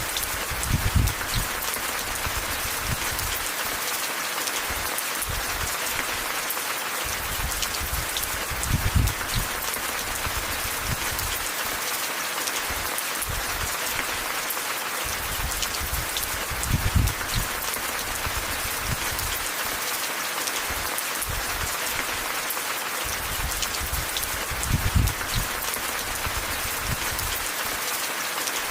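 Steady rain falling, an even hiss of many drops. Brief low rumbles swell and fade about every eight seconds.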